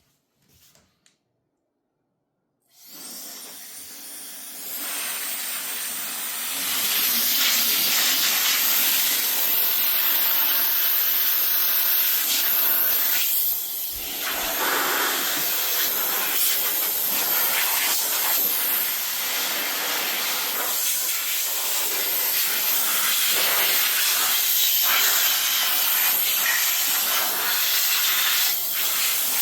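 Electric air duster starting up about three seconds in, its motor whine rising as it spins up, then a steady hiss of blown air that grows louder in steps and dips briefly about halfway through.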